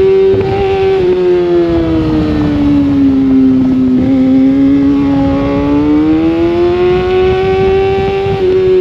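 Sportbike engine at high revs heard from on board at race pace: the pitch eases down over the first few seconds, holds low, then climbs steadily again, with a short step down in pitch near the end like a gear change. Wind rush sits underneath.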